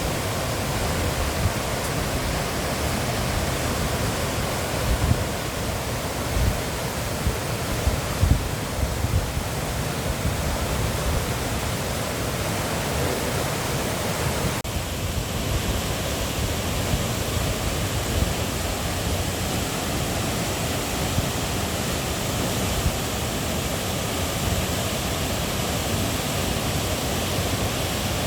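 Steady rush of a mountain stream or waterfall, with the tone of the water noise shifting abruptly about halfway through.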